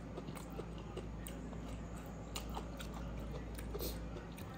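Close-miked chewing of a mouthful of rice and pork intestine: soft, irregular wet mouth clicks and smacks over a low steady hum.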